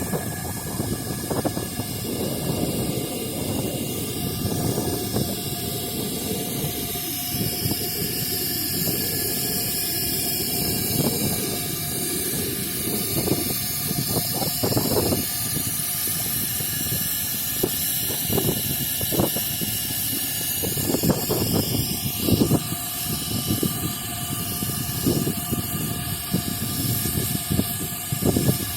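Heavy machinery running with a steady rumble and irregular clanks and knocks.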